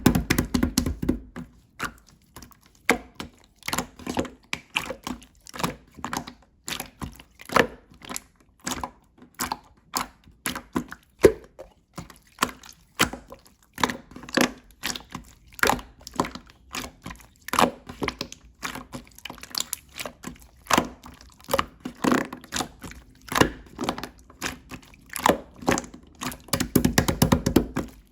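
Slime being pressed and poked by hand: an irregular run of sharp clicks, pops and squelches, a few each second, bunching into a quick cluster near the end.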